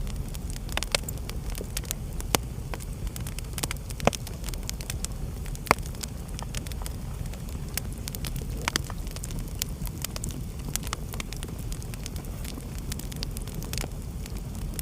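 Wood fire burning in a fireplace: a steady low rumble of the flames with irregular sharp crackles and pops, a few louder pops standing out around 2, 4 and 6 seconds in.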